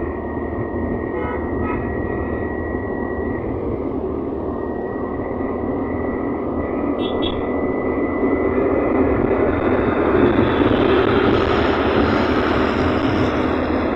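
Scooter running along the road: a steady rush of engine and road noise that grows louder from about eight seconds in.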